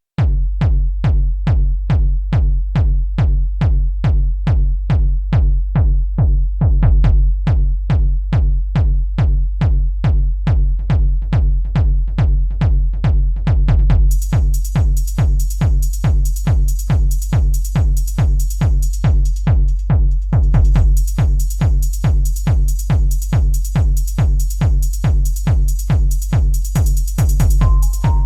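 Electronic techno-style track played on a Native Instruments Maschine+ groovebox: a steady drum-machine kick about twice a second over a deep sustained bass. A high hi-hat layer joins about halfway through, and a held synth tone comes in near the end.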